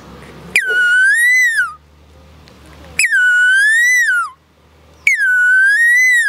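A man imitating the call of the Asian koel (koili) with his mouth, a loud whistle-like call given three times about two seconds apart. Each call starts high, dips, swells back up and falls away at the end.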